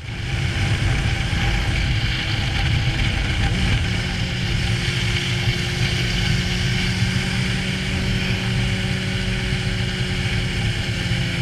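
Honda CBR600 sportbike's inline-four engine running at steady revs under way, with a constant rush of wind noise over the camera microphone.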